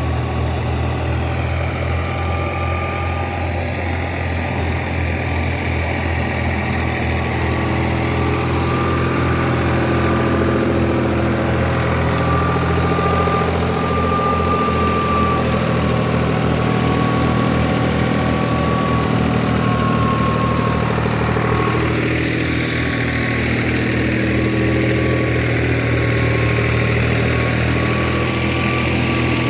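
New Holland 3600-2 tractor's diesel engine running steadily with an even beat, driving a Sonalika thresher, with a thin steady whine over it.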